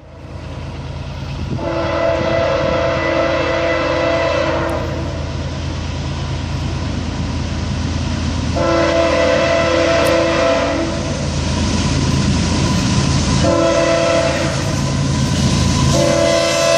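Locomotive horn on a GE ES44AC leading a double-stack freight train, sounding long blasts for a grade crossing as the train approaches: one about a second and a half in, one about halfway, and one about three-quarters of the way through, with another starting near the end. Under the horn the rumble of the oncoming train grows steadily louder.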